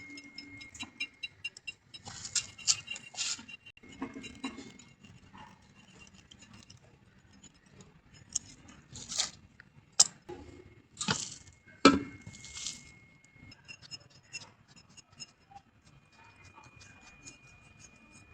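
Scattered metallic clinks and taps of tools and fittings being handled during refrigeration pipe and valve work, with the sharpest knocks about ten, eleven and twelve seconds in.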